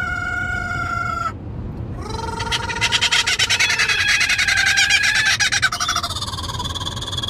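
Pet birds calling inside a moving car. A held whistled note lasts to about a second in. Then, from about two seconds, comes a loud, rapid, rising chattering laugh in the kookaburra style, over steady road rumble.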